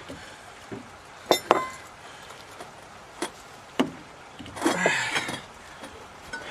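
Metal tools and parts clinking while a truck axle is worked apart: two sharp ringing clinks about a second and a half in, a couple of lighter knocks, then about a second of metal scraping and rattling near the end.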